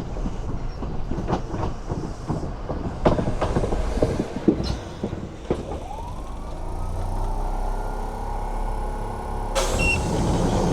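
Kintetsu Suzuka Line electric train: wheels clacking over rail joints in the first half, then a motor whine that rises from about six seconds in and holds steady. A short burst of hiss comes near the end.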